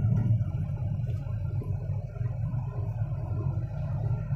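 Freshly rebuilt Hyundai Grand i10 Nios engine pulling the car up a flyover incline, heard from inside the cabin as a steady low engine and road rumble. The rebuilt engine is taking the hill with good pickup.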